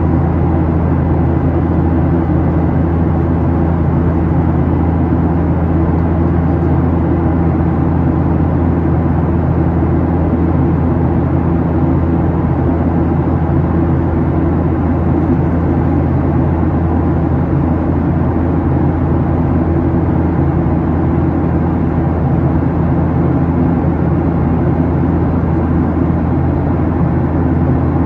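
Steady cabin noise inside a Boeing 737-800 in its climb after takeoff: a deep, even drone of the CFM56-7B jet engines and rushing air, unchanging throughout.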